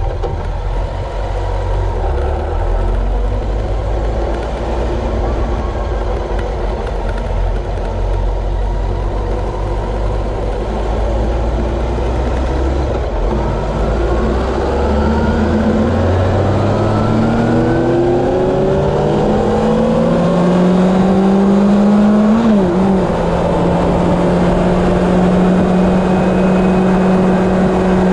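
Honda CB750 inline-four engine under way at speed. It runs steadily at first, then climbs in pitch as the bike accelerates for several seconds. About three-quarters of the way in the pitch dips briefly and then holds steady, over a constant rush of wind noise.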